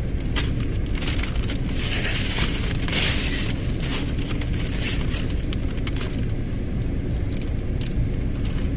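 Crinkling and rustling, with scattered clicks and taps, strongest in the first few seconds, over a steady low rumble inside a car.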